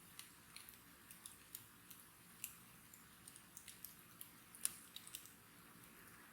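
Wood bonfire crackling: irregular sharp pops and snaps over a faint steady hiss, the loudest pop about four and a half seconds in.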